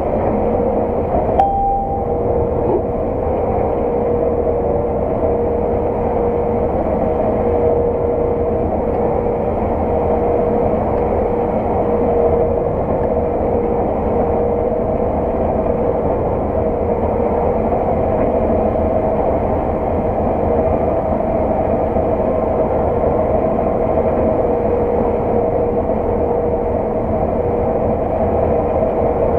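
Harvest machinery running steadily under load, a constant engine drone with a steady whine on top. A single click sounds about a second and a half in.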